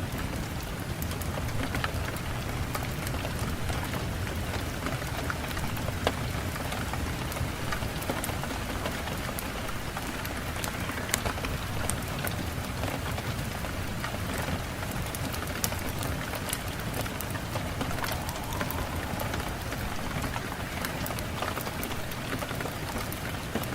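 Steady rain falling on a surface, an even hiss with many scattered sharp drop impacts.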